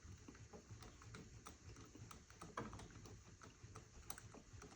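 Faint, irregular light clicks and taps from engine parts being handled.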